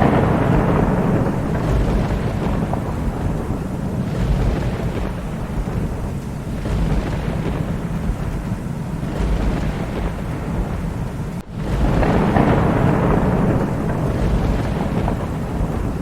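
Thunder rumbling almost continuously over steady rain. About eleven and a half seconds in, the sound briefly cuts out and a louder rumble follows.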